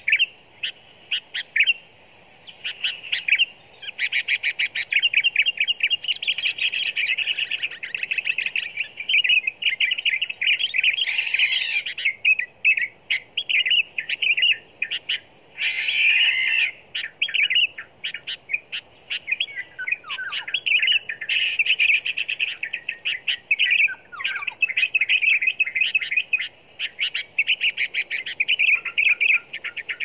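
Birds chirping rapidly in long, dense runs with short breaks. A few falling notes come about two-thirds of the way through.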